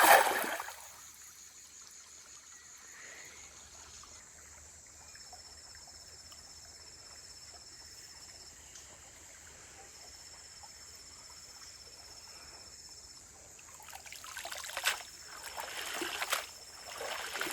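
A fishing net is thrown and splashes into the creek right at the start. The creek then trickles steadily. Near the end there is louder splashing and sloshing as the net is drawn back through the water.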